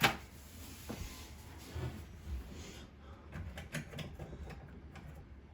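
Handling of a sink's pop-up drain lift-rod parts: a sharp knock at the start, then scattered small clicks and knocks of the pieces being fitted.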